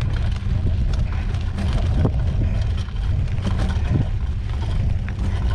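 Wind rumbling on the microphone of a camera carried on a moving mountain bike, a steady low buffeting, with a few scattered clicks from the ride over the trail.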